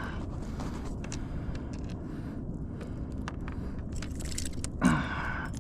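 Small clicks and light metallic rattles as a deep-set fishing hook is worked out of a small calico bass's mouth, over a steady low rushing background. A short voice-like sound comes near the end.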